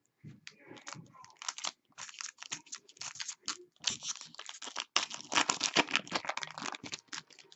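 Rapid crinkling and clicking of trading-card packs and cards being handled, densest and loudest for a second or so just past the middle.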